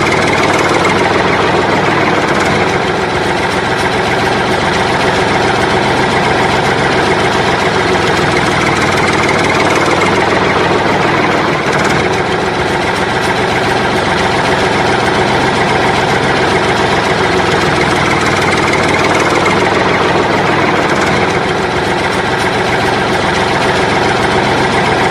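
A steady engine idling sound, running on without a break and swelling a little now and then.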